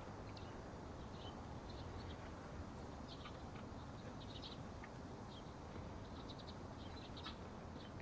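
Small birds chirping faintly: short, high chirps scattered irregularly over a steady low background hiss.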